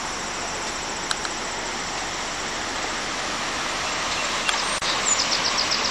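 Floodwater rushing below a dam: a steady, even rush of water that grows slightly louder.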